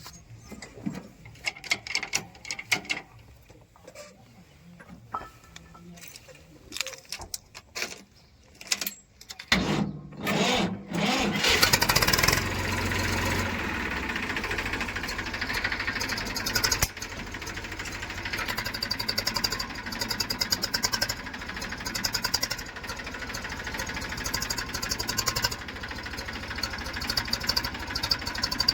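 Scattered clicks and knocks, then about ten seconds in a diesel engine starts and settles into steady running with a fast, even beat.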